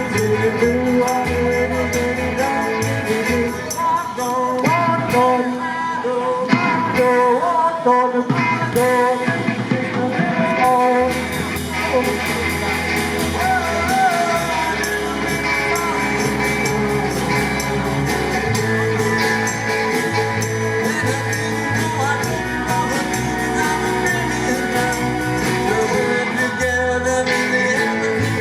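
Live rock-and-roll band playing, with a steady beat, bass line and singing.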